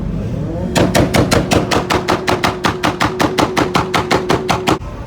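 A car engine revs up and is held at a steady high speed on a rev limiter, its exhaust cracking in rapid, evenly spaced pops about six times a second for around four seconds before cutting off suddenly.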